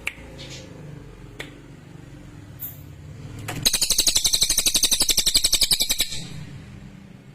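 Cililin, a small songbird, giving a loud, fast rattling trill of about ten sharp notes a second, lasting some two and a half seconds from about halfway in. A low steady hum runs underneath.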